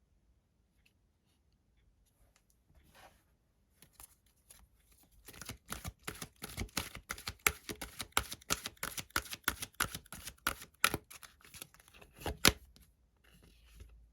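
Tarot cards being shuffled by hand: light handling noises at first, then from about five seconds in a dense run of quick card snaps and slaps, the loudest slap near the end.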